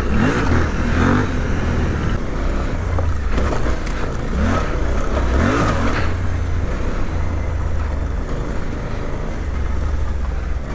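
Suzuki V-Strom 800DE's 776 cc parallel-twin engine being ridden hard off-road, revving up several times in short rising bursts as the throttle is opened and eased over rough ground.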